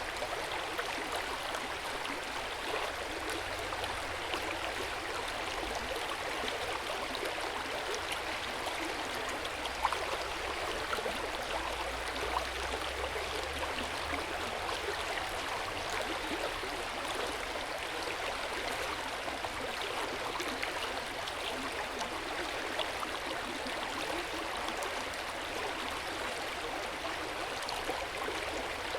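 Hot spring water flowing into an outdoor bath: a steady splashing wash with many small droplet trickles.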